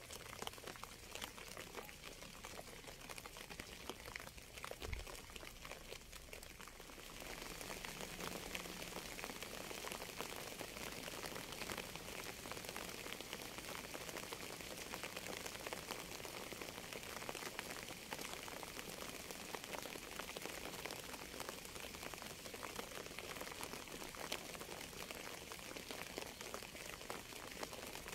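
Steady rain falling, a dense patter of drops that grows louder and fuller about seven seconds in, with a brief low thud about five seconds in.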